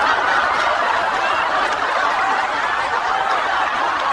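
A group of people laughing and chuckling together in a steady, loud wash of many voices.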